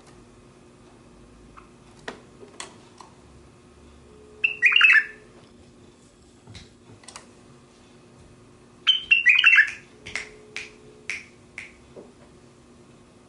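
White-eared bulbul calling. Two short bursts of chattering notes come about four and a half and nine seconds in, followed by a run of single short notes. A few light clicks fall between them.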